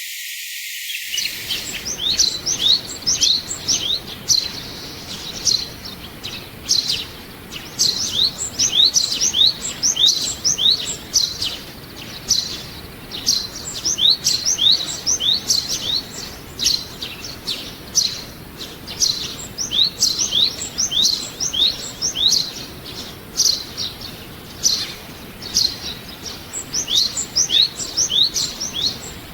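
Small songbirds chirping: many short, high, quick-sweeping chirps, rapid and overlapping, beginning about a second and a half in.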